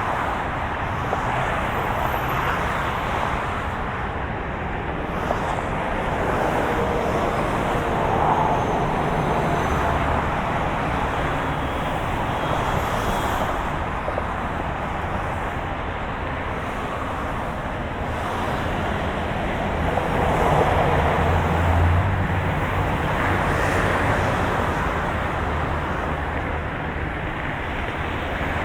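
Steady drone of a moving car: road and engine noise with a low hum, swelling a little about two-thirds of the way through.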